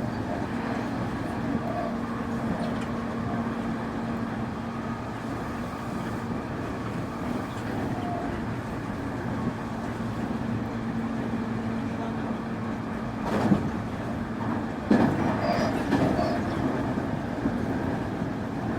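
Semboku 9300 series electric train running at steady speed, heard from inside the car: a continuous rumble of wheels on rail with a faint steady hum. Two sharp knocks stand out a little past the middle.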